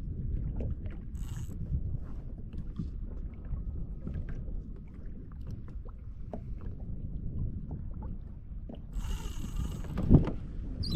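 Wind rumbling on the microphone and water moving against a kayak's hull, with scattered small knocks. A short hiss about nine seconds in and a sharp thump just after it.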